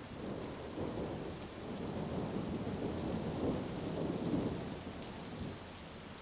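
A roll of thunder rumbling over steady heavy rain. It swells just after the start, is loudest a little past the middle, and dies away near the end.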